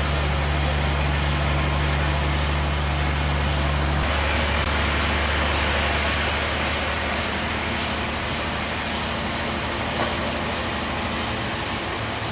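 Bandsaw sawmill running with a steady machine hum. About four seconds in the low hum drops away and a broader, hissier sawing noise takes over, with faint regular ticking throughout.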